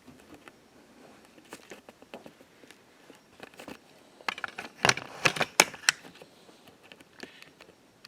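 A series of sharp clicks and taps, handling noise of something small and hard, with a louder cluster of clicks about five seconds in.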